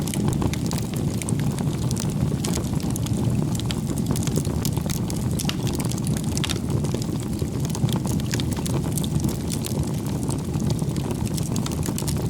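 Bonfire of firewood burning: a steady low rumble of flames with frequent, irregular crackles and pops from the wood.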